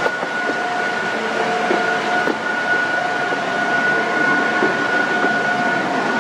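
Pleasure Beach vintage ride-on train running along its track, heard from on board: a steady rolling rumble with a constant high whine and a few faint clicks.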